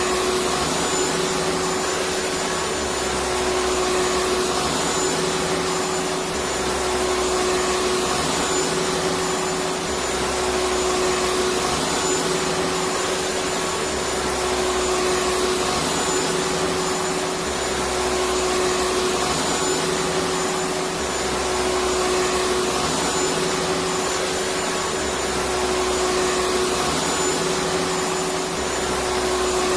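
Electric vacuum cleaner running continuously with a steady whoosh of air and a constant motor hum, a low rumble beneath it swelling and fading every few seconds.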